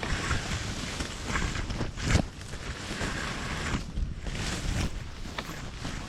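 Wind buffeting the microphone over a steady rush of flowing water, with a sharp knock about two seconds in and a few fainter ones.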